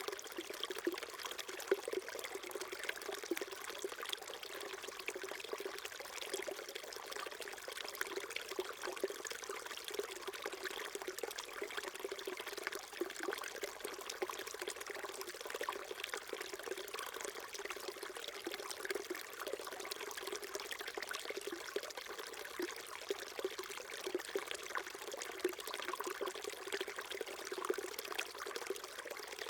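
Small mountain stream trickling and babbling steadily over rocks.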